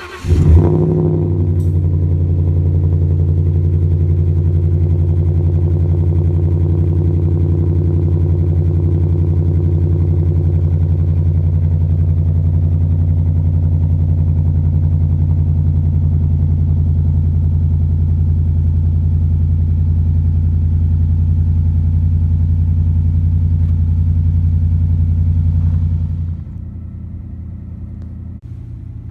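2014 Ford F-150 pickup's engine catching with a brief rev flare about half a second in, then idling steadily. Near the end the sound drops to a noticeably quieter, steady level.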